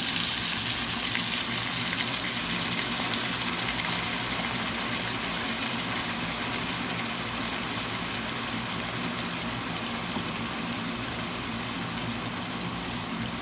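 Cheese-and-wonton-wrapper dumplings frying in a pan: a steady sizzling hiss with faint crackle that slowly dies down.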